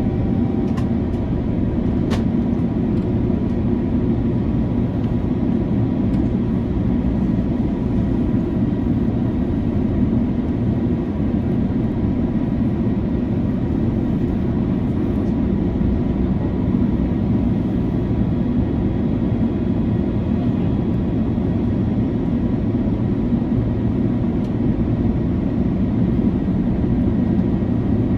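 Airbus A330-300 cabin noise in cruise: a steady rush of airflow and engine noise, heaviest in the low end and unchanging throughout, with a faint tick or two about two seconds in.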